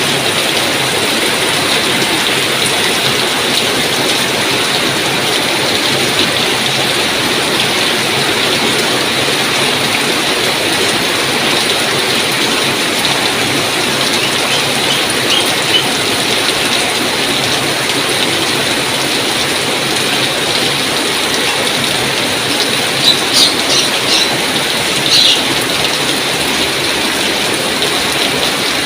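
Steady rain falling, an even dense hiss. A few short high-pitched sounds stand out briefly over it, mostly in the last third.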